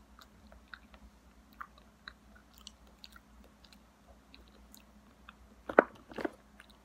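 Faint wet mouth clicks of someone chewing a mouthful of banana with her mouth closed. Near the end come two louder knocks about half a second apart, the first one sharp, as she handles something.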